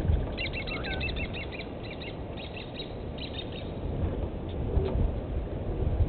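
A small songbird chirping: a quick run of high chirps in the first second, then two shorter runs around the middle, over a steady low rumble.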